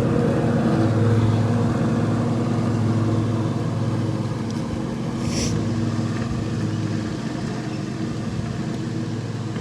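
Engine running steadily at an even speed, slowly growing quieter.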